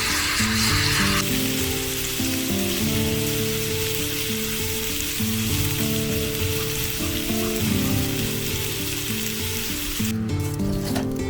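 Food sizzling as it fries in a pan, with an even hiss that stops about ten seconds in. Background music plays throughout.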